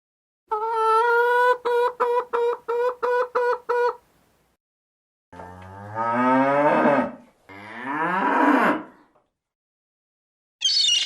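Cattle mooing: two long, low moos that rise in pitch, about five and seven seconds in. Before them comes a rapid stuttering call of about nine short pulses on one steady pitch, and a brief high-pitched call starts just before the end.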